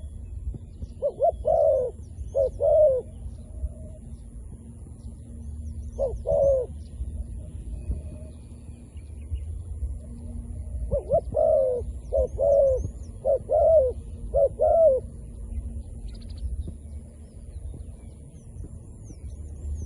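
Zebra dove cooing in short bursts of quick staccato notes: a few calls in the first three seconds, one about six seconds in, and a run of four or five from about eleven seconds. Faint high chirps of small birds and a steady low rumble lie underneath.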